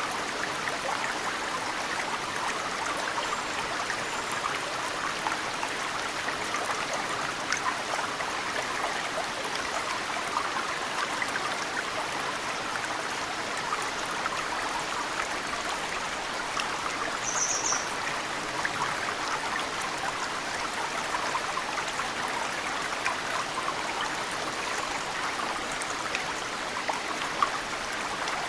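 Mountain stream flowing steadily, with snowmelt water dripping and trickling into it. A brief high bird chirp comes about two-thirds of the way through.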